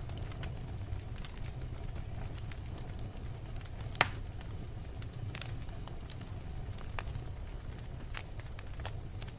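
Logs burning in a fireplace: a steady low rumble of flame with scattered crackles, and one sharp loud pop about four seconds in.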